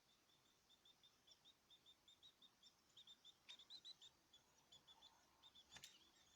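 Small caged birds chirping in a quick run of short, high chirps, roughly four a second, faint throughout. A sharp click comes about halfway through and another near the end.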